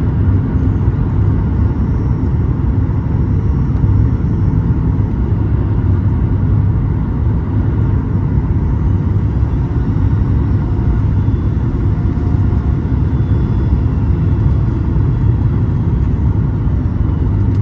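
Steady low rumble of airliner cabin noise inside a Boeing 737 MAX 8 in flight on approach: its CFM LEAP-1B engines and air rushing over the fuselage.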